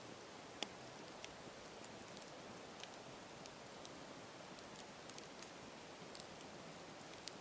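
Campfire burning: a soft steady hiss with scattered crackles and pops, the sharpest snap coming just under a second in.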